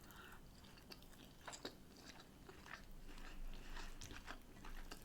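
A person chewing a mouthful of battered cod: faint eating sounds with small irregular clicks.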